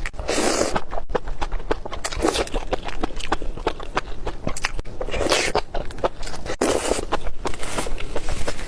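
Close-miked mukbang eating: wet chewing with a rapid stream of sharp mouth clicks, broken four times by longer, louder noisy bites or slurps.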